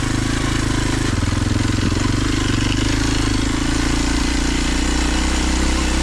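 A Kawasaki KLX 230 dual-sport motorcycle's single-cylinder four-stroke engine running at low speed on a trail climb, its note stepping slightly about a second in and again near four seconds, with a steady hiss over it.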